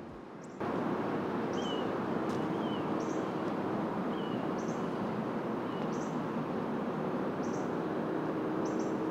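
A bird repeating short high chirps, about one a second, over a steady outdoor rushing noise.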